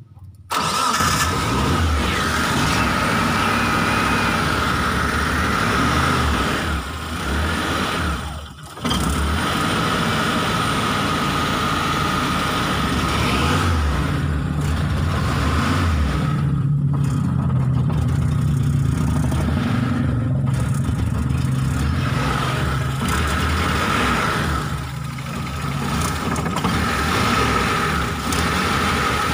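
Mitsubishi T120SS fuel-injected engine being started and running, with a short drop-out about eight and a half seconds in before it picks up again. The engine is hard to start (susah hidup).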